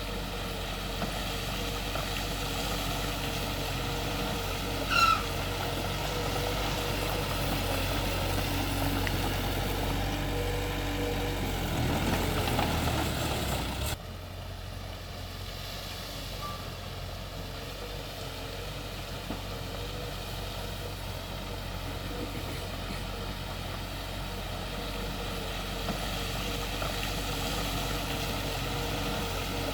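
Heavy diesel machinery running steadily, bulldozer and dump-truck engines at work, with one short high beep about five seconds in. The engine sound drops suddenly about fourteen seconds in.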